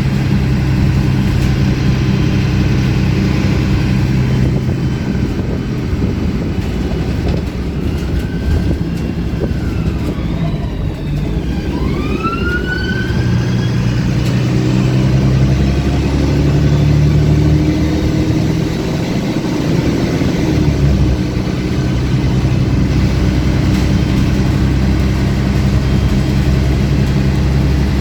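MAN 18.220 bus's diesel engine running under way, its exhaust louder than usual, the engine note dropping back and then rising again as the bus pulls away. A few short rising and falling whistling tones sound about a third of the way in.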